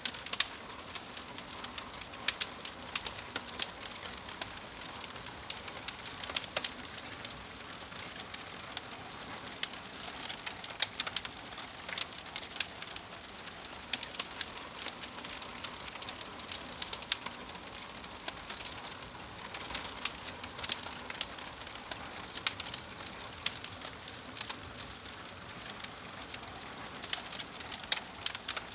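Crackling fire: a steady soft hiss with irregular sharp pops and snaps throughout.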